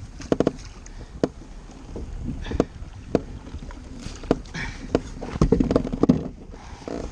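Scattered knocks and clatter against a kayak, with some water splashing, as a large snapper is brought in with a landing net.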